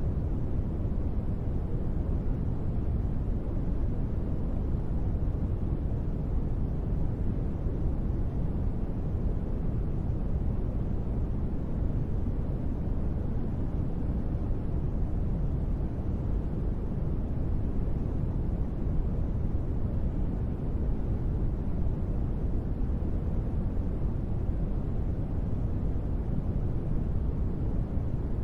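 Steady, unchanging sleep-aid noise: an even hiss with no pitch or rhythm, deep and weighted toward the low end rather than bright.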